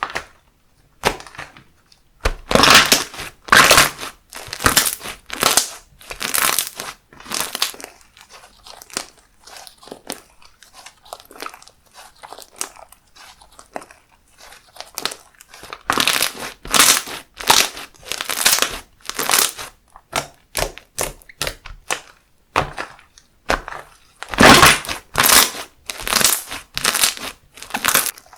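Handmade slime being squeezed and pressed by hand: a series of sharp squishy presses about one a second, in three busier spells with quieter handling between.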